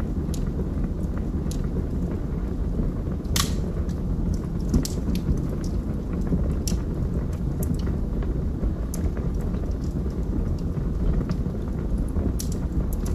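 Wood fire burning in a fireplace: a steady low rumble of flames with scattered crackles and pops from the burning logs, one sharper pop about three and a half seconds in.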